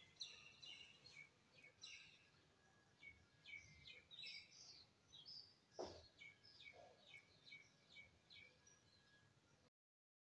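Near silence: faint, repeated bird chirps and one soft tap about six seconds in.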